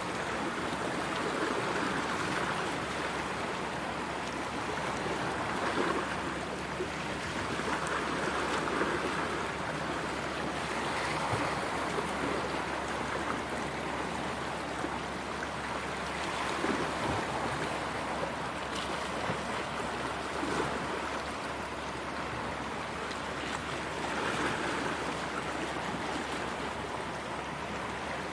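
Ocean waves washing ashore, a steady surf rush that swells and ebbs every few seconds.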